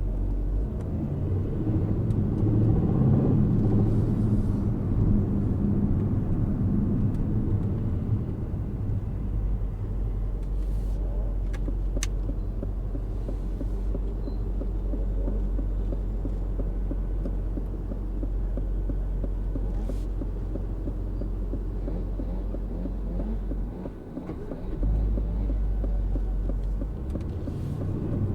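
2025 Aston Martin Vantage's 4.0-litre twin-turbo V8 pulling and cruising at low load with road rumble, the engine swelling a few seconds in and then settling to a steady run, with a short dip in level near the end.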